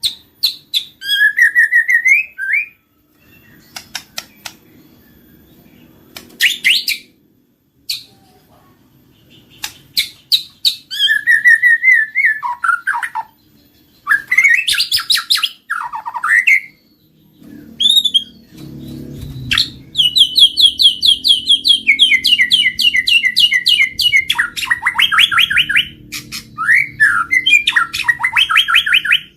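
White-rumped shama singing a loud, varied song: sharp clicks, rising whistled phrases, and in the second half long runs of fast repeated notes. It is a lure song of the kind played to set captive shamas singing.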